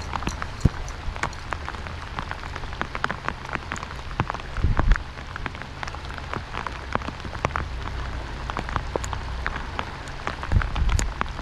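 Steady rain falling on the lake and the boat, with countless drops ticking sharply close by over a hiss. A low steady hum runs underneath, and two dull thumps come about halfway through and near the end.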